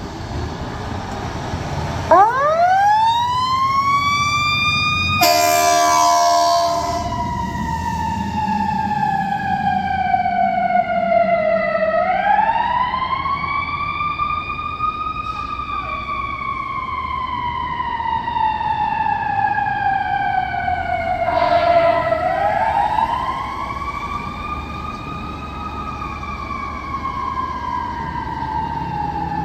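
Hamilton Fire pumper's siren winding up about two seconds in, then sounding a slow wail that falls and climbs again twice. A blast of the truck's air horn comes a few seconds in and a shorter one about two-thirds of the way through, over the rumble of the engine.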